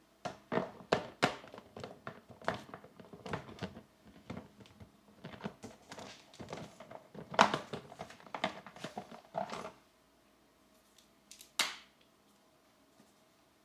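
Coloring supplies being handled: an irregular run of clicks, taps and light rustles for about ten seconds, then a pause and one sharper knock near the end.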